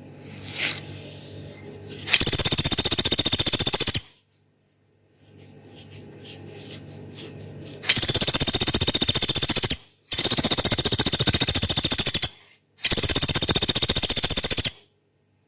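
Pelatuk beras, a small woodpecker, giving long, harsh, very rapid rattling calls: four bursts of about two seconds each, the last three close together with short pauses between them.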